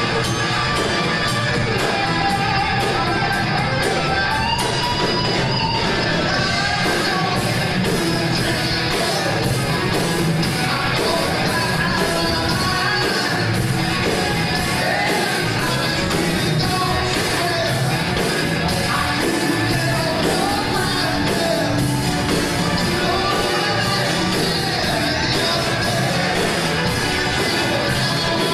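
Rock band music with a singing voice over a steady drum beat and guitar, the drumming growing busier about seven seconds in.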